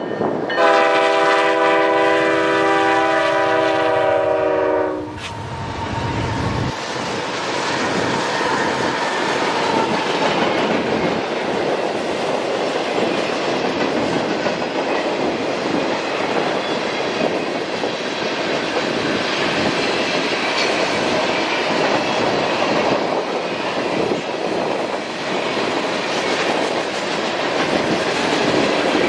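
Freight locomotive air horn sounding one long chord of several tones for about four seconds. It cuts off, then the train rolls past with a steady rumble and clatter of wheels on rail.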